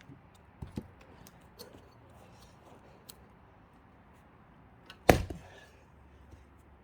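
Axe striking a thick log once, a sharp loud chop about five seconds in, after a couple of faint knocks.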